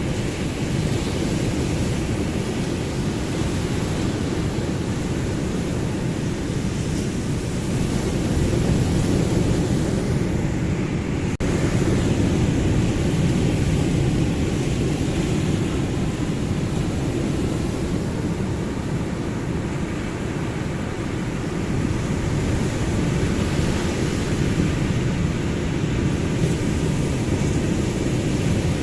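Ocean surf: a steady, deep rush of waves that swells louder now and then.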